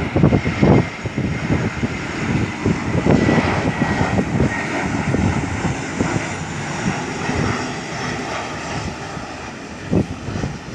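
Airliner on landing approach passing close by, its engines giving a loud, steady rushing noise with a faint high whine that dips slightly in pitch.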